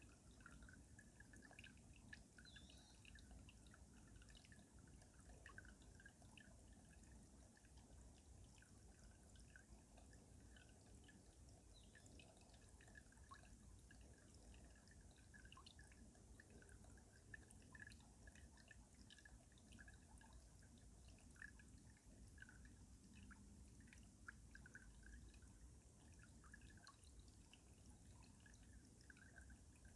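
Faint mountain stream water running under ice, with many small quick drips and plinks.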